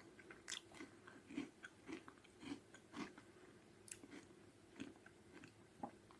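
Faint chewing of crunchy ragi (finger millet) bites with strawberry filling, a soft crunch about every half second.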